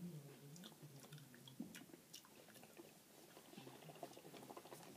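Faint chewing of Masala Munch spicy chips, with scattered small crunching clicks over a low room hum.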